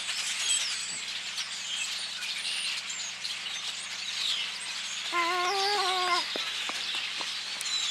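Noisy chatter of a large flock of birds in the trees: many overlapping short chirps and whistles, constant throughout. About five seconds in, a brief drawn-out, slightly wavering voice-like tone lasts about a second.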